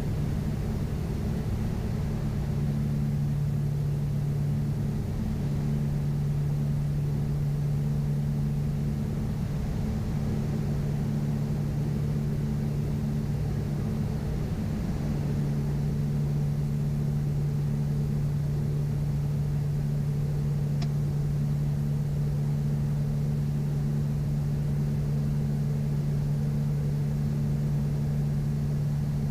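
Cockpit drone of a 1980 Piper PA-31 Navajo Colemill Panther conversion in cruise: its twin piston engines and propellers run steadily with a low, even hum. A faint click about 21 seconds in.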